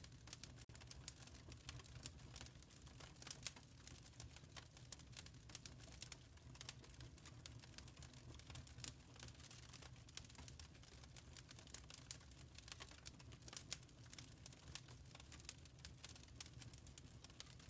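Wood fire crackling faintly in a fireplace: irregular small pops and snaps over a steady low rumble.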